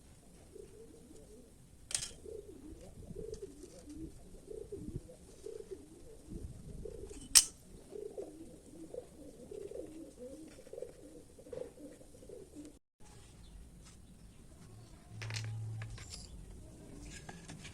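A dove cooing over and over in low, wavering calls, with two sharp knocks, the louder one about seven seconds in, and a short low hum near the end.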